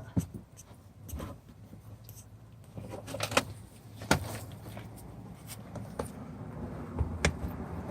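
Scattered sharp clicks and knocks, about five in all, from interior trim and fittings of a car being handled and pulled loose during carpet removal, over a steady low hum.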